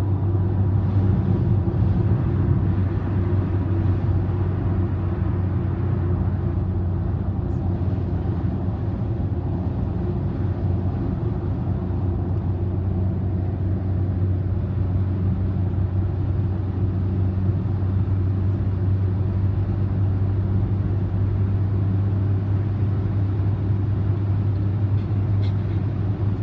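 A car cruising at expressway speed, heard from the cabin: a steady low drone of engine and tyre road noise that holds even throughout.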